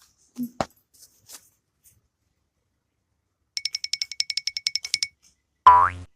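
Rapid electronic ringing like an alarm clock, about ten even pulses a second for a second and a half. It is followed near the end by a short, loud tone that falls steeply in pitch.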